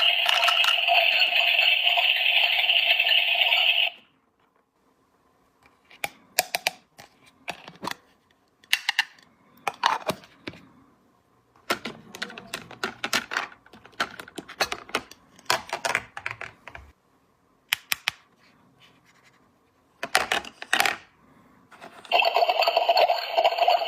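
Small hard plastic toy pieces clicking and tapping as they are handled and set down, in scattered clusters with short pauses. A loud steady sound of fixed pitch cuts off about four seconds in and comes back near the end.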